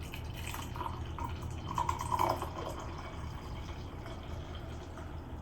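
Hot tea being poured into a cup, a trickling, splashing stream that is loudest about two seconds in and then tapers off.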